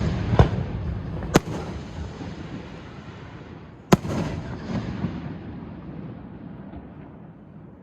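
Aerial fireworks bursting: three sharp bangs, about half a second in, about a second and a half in and about four seconds in, each followed by a rolling, echoing rumble that fades away toward the end.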